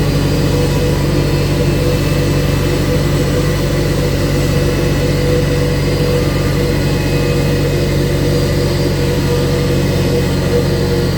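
Steady drone of heavy engines during an Airbus A321-231's pushback: a low, even hum with a faint higher whine above it, holding the same pitch throughout.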